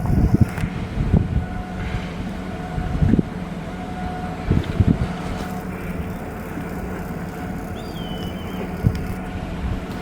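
Steady machinery hum in shipyard work, with a few short low thumps and wind buffeting the microphone.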